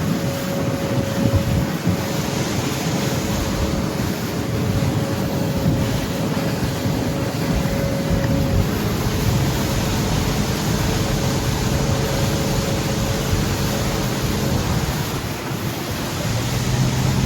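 A motorboat's engine running steadily under way, with water rushing past the hull and wind buffeting the microphone.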